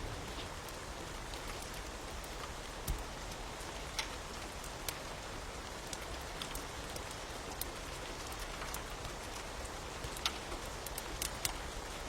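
Steady rain with irregular sharp ticks and crackles scattered through it, about two a second.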